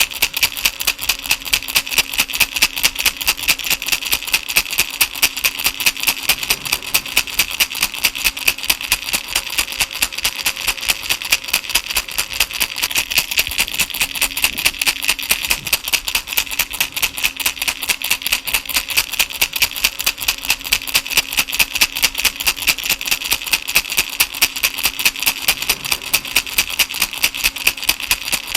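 Baby rattle shaken in a steady, even rhythm, a little over two shakes a second, with the beads giving a bright rattle. A faint low steady tone runs underneath.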